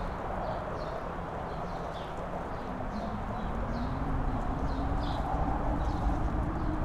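Strong wind on a mountain top, buffeting with a low rumble and a faint howling tone that slowly rises in pitch. Short, high chirps repeat through it.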